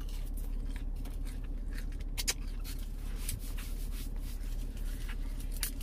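Close-miked chewing with small wet mouth clicks and smacks, someone eating chicken nuggets, over a steady low hum.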